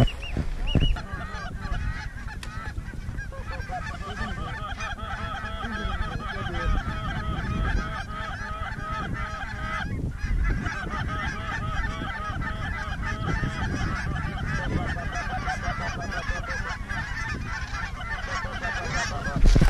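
A large flock of snow geese calling, many short, high honks overlapping in a continuous chorus.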